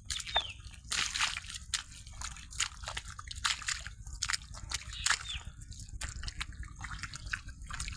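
Water splashing and sloshing in irregular bursts over a low steady rumble.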